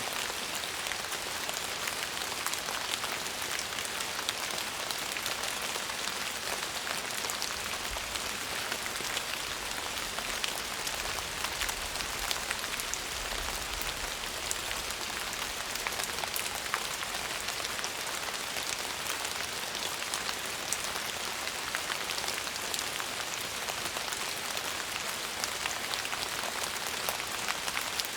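Steady rain falling on a surface: a dense, even hiss of drops with fine individual ticks, unchanging throughout.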